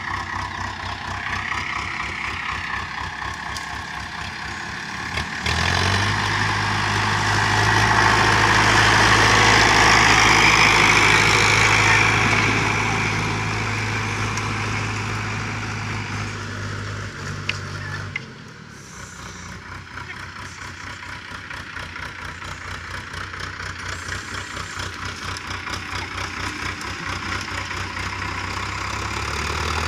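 Preet tractor's diesel engine running with an even chug. About six seconds in it gets much louder and holds a steady hard run, then drops off suddenly around eighteen seconds and goes back to a quieter chugging that slowly builds again.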